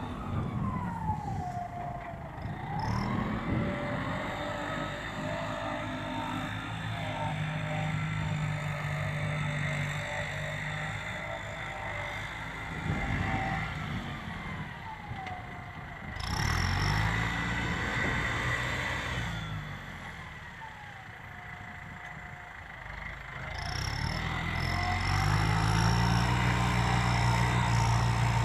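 New Holland tractor diesel engine working under load as it pulls a disc plough, its speed rising and falling repeatedly, louder about two-thirds of the way in and again near the end.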